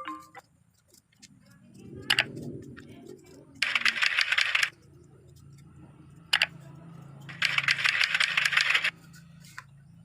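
Plastic craft materials worked by hand: two rasping scrapes of about a second each, with small clicks and rattles between them.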